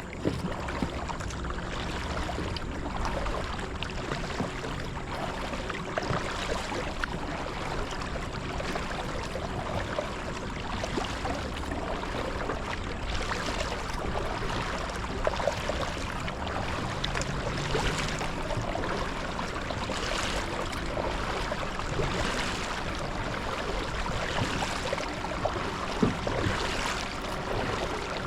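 Water splashing and lapping around a kayak as it is paddled, with a surge of splash every two to three seconds from the paddle strokes and a few small knocks.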